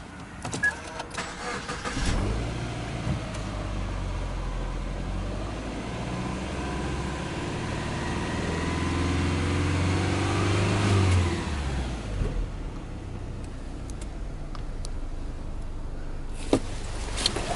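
Subaru Legacy 2.5GT's EJ25 turbocharged flat-four engine starting about two seconds in, then idling at a raised fast idle of about 2,000 rpm just after the start. The idle drops and settles lower about eleven seconds in, with a few handling clicks at the start and near the end.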